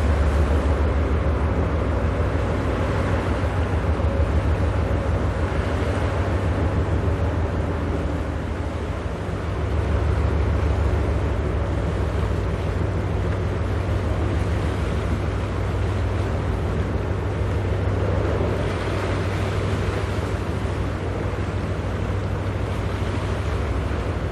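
Steady low drone of a ship's diesel engines, swelling a little about ten seconds in, over a wash of water and wind buffeting the microphone.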